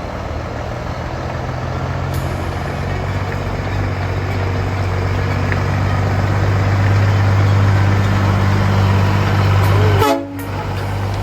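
Heavy truck's diesel engine running with a steady low hum that slowly grows louder, breaking off suddenly for a moment about ten seconds in.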